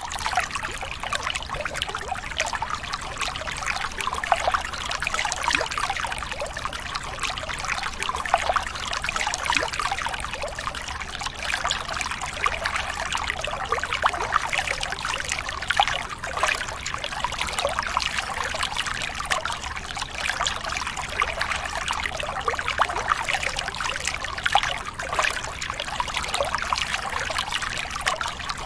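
Water trickling and pouring steadily, a continuous splashing of many small drops.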